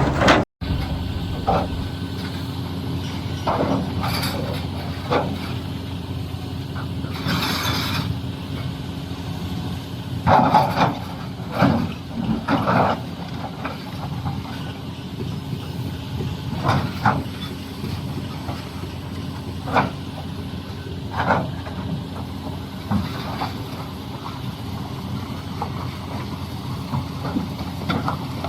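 Doosan DX390 excavator's diesel engine running steadily under repeated short clanks and scrapes of the bucket working rock. There is a brief hiss about seven seconds in.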